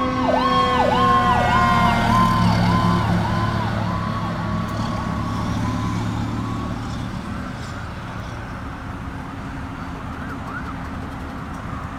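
Fire apparatus sirens on a fast yelp, with a second, lower siren tone sliding slowly downward and a heavy truck engine rumbling loudest a few seconds in. The sirens and engine fade away as the trucks move off, with the yelp heard faintly again near the end.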